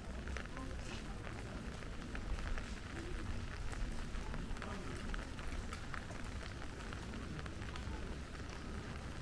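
Steady rain falling, with many small raindrop ticks over an even hiss and a low rumble underneath.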